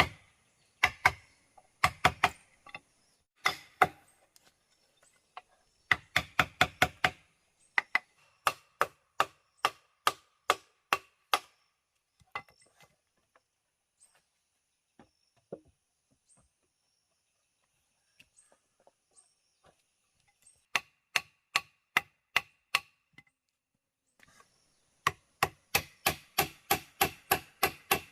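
Hand tool striking wood in runs of sharp blows: about two a second for a few seconds, then a faint stretch with only scattered ticks, then a quicker run of about three a second near the end. Some blows leave a short metallic ring.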